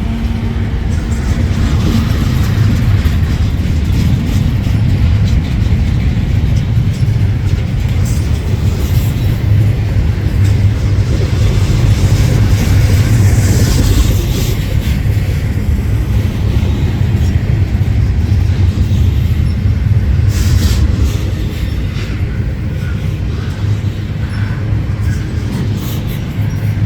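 Freight train rolling past close by: a steady heavy rumble of rail cars on the track, with a few sharp clicks about two-thirds of the way through.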